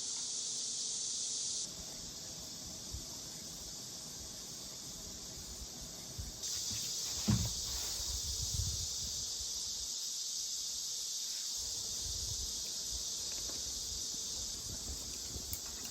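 A steady, shrill chorus of summer insects, high-pitched and unbroken, with a few low thumps about halfway through.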